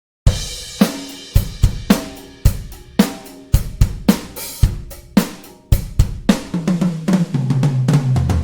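Sampled drum kit from Toontrack EZdrummer 3 playing a preset groove of kick, snare, hi-hat and cymbals, starting after a moment of silence. Near the end a fill runs down the toms, stepping lower in pitch.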